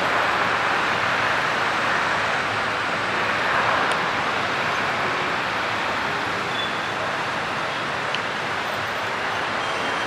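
Airliner engine noise: a steady rushing sound, strongest in the middle range, slowly growing a little fainter.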